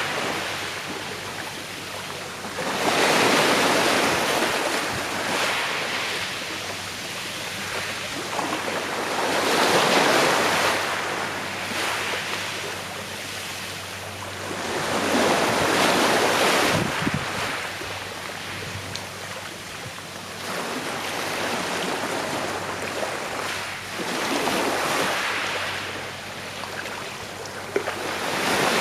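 Sea waves breaking and washing up on a shore, the surf swelling and fading five times, several seconds apart.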